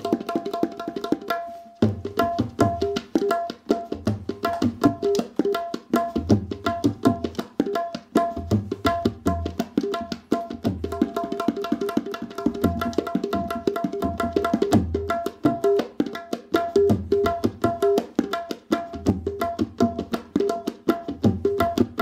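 Background music led by tabla drumming: quick, steady strokes with ringing pitched tones and deep bass strokes.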